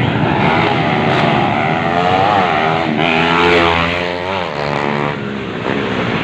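Motorbike engines revving, their pitch rising and falling in quick sweeps over dense engine noise.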